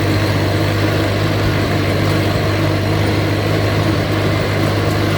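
Allis-Chalmers C tractor's four-cylinder engine running steadily while mowing, with its Woods mower deck's blades engaged, making a constant low hum.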